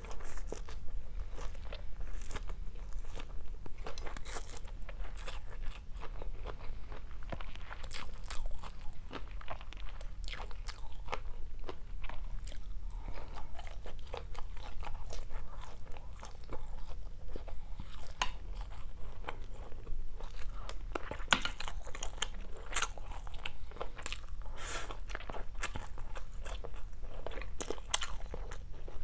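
A person chewing and biting mouthfuls of stir-fried rice vermicelli with fried tofu, with many irregular crunches and mouth clicks.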